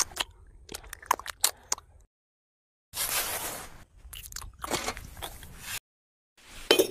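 Small trowel scraping and spreading wet cement mortar, a gritty crunching scrape with a few sharp clicks about one to two seconds in. The sound comes in spells that cut off suddenly into silence twice.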